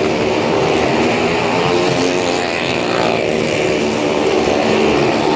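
Several motorcycle engines running hard together as they circle the vertical wall of a Well of Death, a loud, continuous drone of overlapping engine notes that rise and fall.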